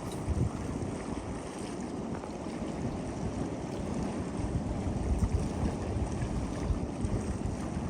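Wind buffeting the microphone over the wash of sea surf, growing a little stronger in the last few seconds.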